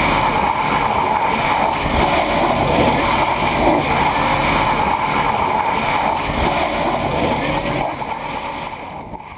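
Electric race car under way, heard from inside: its twin Warp 11-inch electric motors run under a steady rush of wind and road noise, which fades out near the end.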